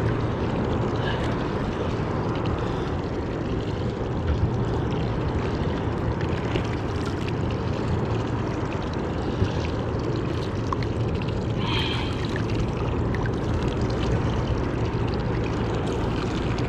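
Steady wash of water and wind around a small fishing boat, with a low steady hum underneath and a few faint knocks.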